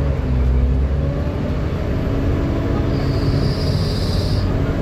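Volvo B7TL double-decker bus running under way: a steady diesel engine drone with pitched whine lines that climb slightly. From about 3 to 4.5 seconds in a high whine rises over it, the 'hoover' sound this bus is known for.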